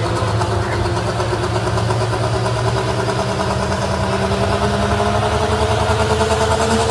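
Diesel pickup pulling truck's engine running hard and steady, its pitch rising gradually over the last few seconds.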